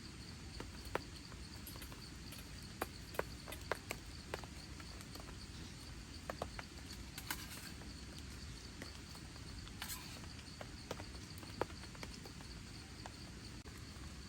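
Rain on a camping shelter: a steady hiss of rain with scattered single heavy drops tapping sharply and irregularly on the fabric.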